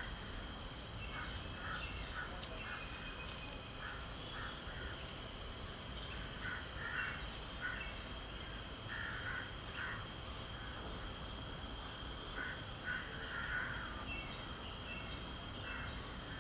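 Birds calling: a string of short calls, a second or so apart, over steady outdoor background noise.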